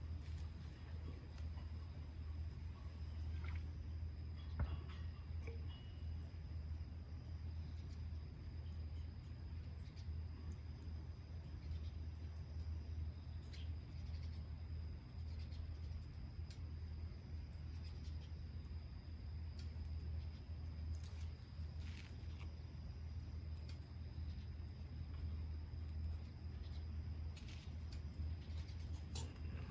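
Insects chirping in a steady, high, evenly pulsing chorus, over a constant low hum, with a few faint scattered clicks.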